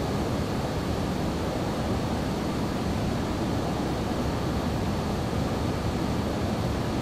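Boeing 737-800 engine and airflow noise, a steady even rumbling hiss with a faint high steady whine above it.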